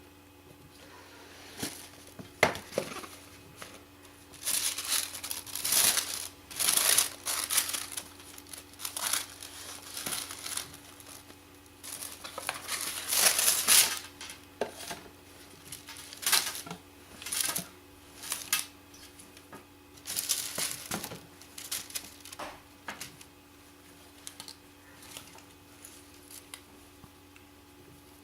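Packaging being handled and opened by hand: irregular bursts of crinkling and rustling, with a few sharp clicks among them.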